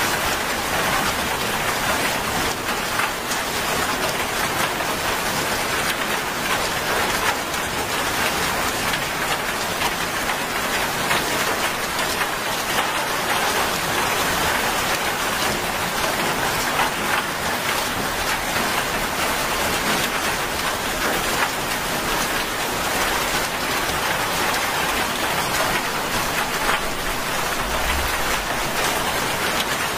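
Heavy rain falling steadily on a wet road, puddles and roadside plants, an even hiss of countless drops.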